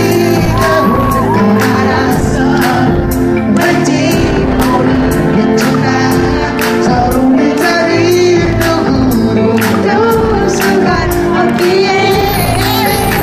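Live amplified pop music at a concert, recorded from the audience: a steady driving beat with a male lead vocal singing over it.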